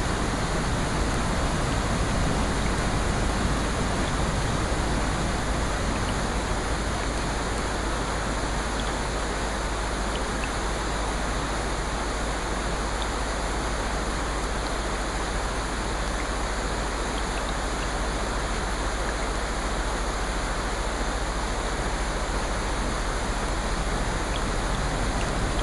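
Steady rushing water noise, even and unbroken, with a few faint ticks.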